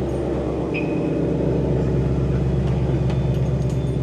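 Car engine idling steadily, not cold from a recent drive. A brief high chirp sounds about a second in.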